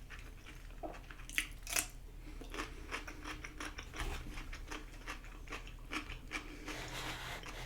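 A person chewing a big mouthful of chewy tteokbokki rice cakes close to the microphone, with soft, irregular wet mouth clicks and smacks.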